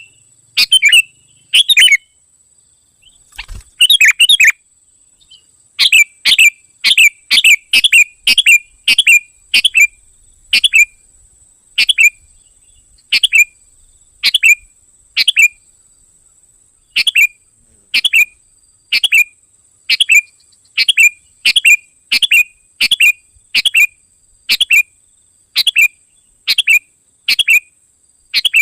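Sooty-headed bulbul lure call: short, loud, sharp chirps repeated roughly once a second, with a brief pause about two seconds in. A faint steady high tone runs underneath.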